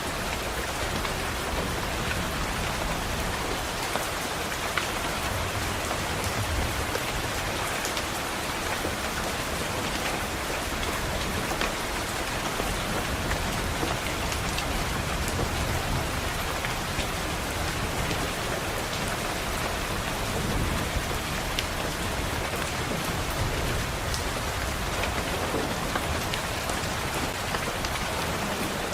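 Steady rain pattering on a window, with many small drop ticks and low thunder rumbling now and then.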